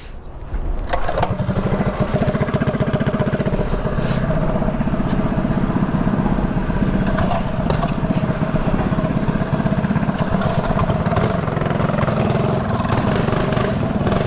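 Mini bike's small engine running. It picks up about a second in, then holds a steady cruising pace.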